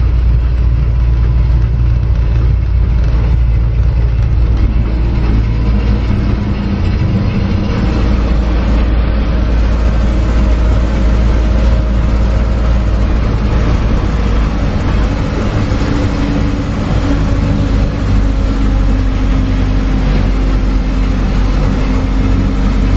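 Engine of a trackless road train's towing vehicle running steadily with a low drone as the train moves, heard from aboard.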